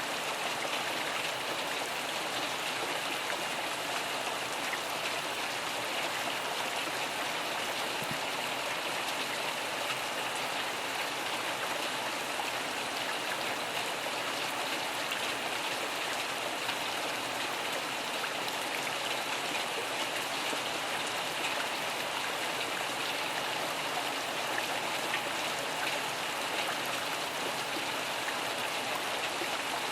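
Steady rainfall, an even hiss of drops with no change in level.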